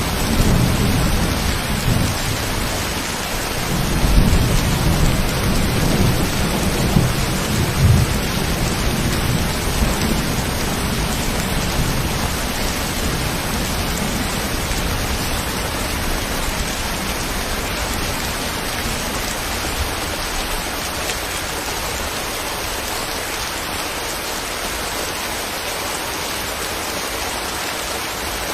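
Steady rain falling, a dense even hiss. Under it a low rolling rumble of thunder swells a couple of times in the first few seconds and dies away about halfway through.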